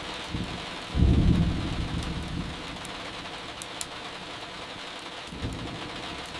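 Steady rain with thunder rumbling. A loud low roll starts about a second in and fades over a second or so, and a softer one comes near the end, with a few faint clicks in between.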